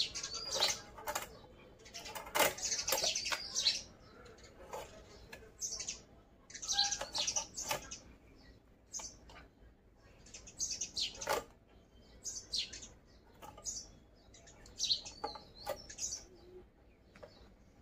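Small birds chirping in short, quick, repeated calls, mixed with occasional sharp clicks and scrapes of fish being cut on an upright blade over a steel bowl.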